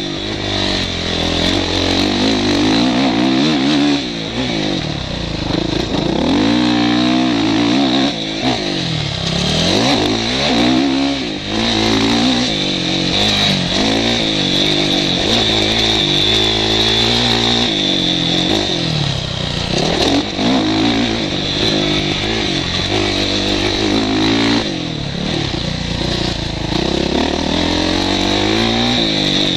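Motocross bike engine, heard from the rider's helmet, revving up and down over and over as the rider accelerates, shifts and backs off around the track.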